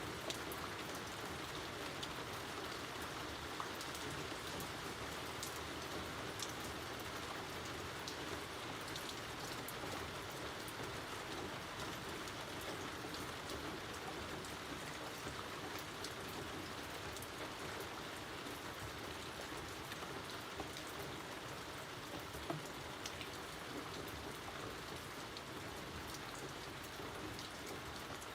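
Steady rain falling, a continuous hiss with scattered sharp drop ticks landing on a surface.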